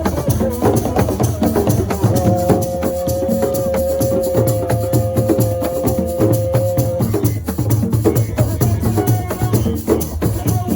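Assiko percussion music: a fast, dense rhythm of drums with rattle and wood-block-like strikes. A long steady note is held over it from about two seconds in to about seven seconds.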